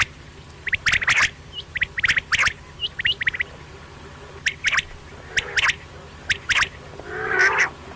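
Quail calling: short, clipped notes in quick clusters of three to five, a cluster about every second, with a louder, rougher call near the end.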